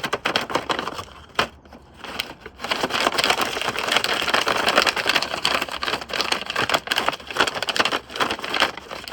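Washing machine on a high-speed spin with a brick inside, the unbalanced drum and cabinet clattering violently in a rapid stream of knocks and rattles. It eases briefly about a second and a half in, then comes back louder and cuts off suddenly at the end.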